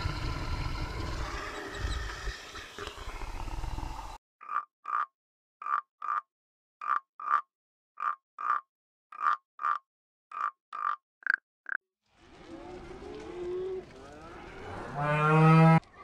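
A bear growling low and rough, then a frog croaking in short pairs, about seven pairs over eight seconds with silence between them. Near the end a sea lion gives a drawn-out call that rises to its loudest just before the end.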